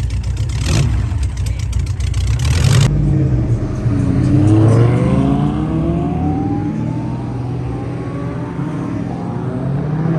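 A VW Beetle's air-cooled engine running loud for about three seconds. Then a car accelerating hard away, its engine pitch rising steeply twice as it pulls through the revs.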